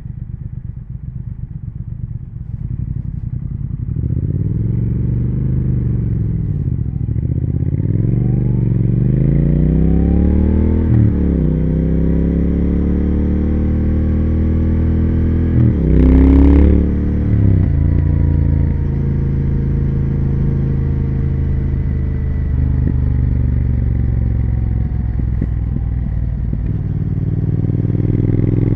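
2020 Triumph Speed Twin 1200's parallel-twin engine and exhaust on the move. It pulses at low revs, then pulls up through the revs with several gear changes and cruises steadily, with a brief loud burst of noise about sixteen seconds in. The revs climb again near the end.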